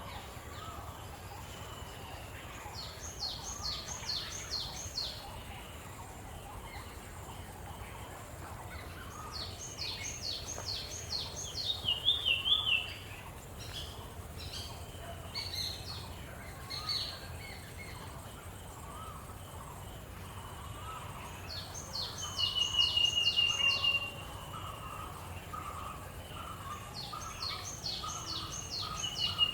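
Birds calling: four spaced bursts of quick, high, descending chirps, some ending in a short, level whistle, over a faint low rumble.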